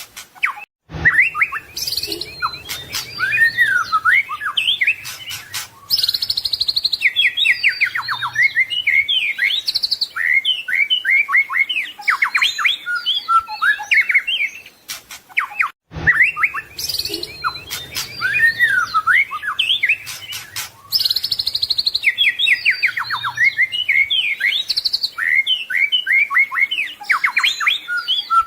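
White-rumped shama (murai batu) singing a fast, varied song of loud whistles, chattering phrases and rapid trills of repeated notes, full of mimicked phrases of other birds. The same passage of about fifteen seconds plays twice, each time starting after a brief break, about a second in and again about halfway.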